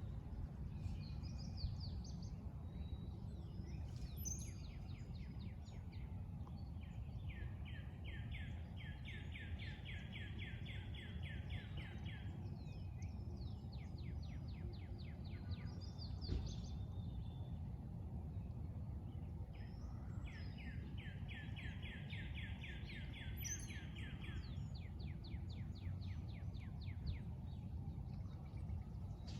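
Songbirds singing: long trills of rapid repeated notes, two of them lasting about five seconds, with shorter, higher trills and chirps between, over a steady low background rumble.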